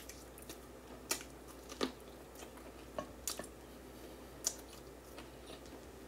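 Mouth sounds of someone eating barbecued jerk pork neck bones by hand: chewing, with five or six short wet smacks and clicks of the lips at irregular spacing.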